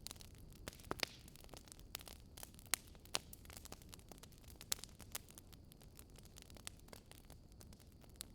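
Campfire crackling: irregular sharp pops and snaps of burning wood over a low steady rumble, with a few louder pops about one, three and nearly five seconds in.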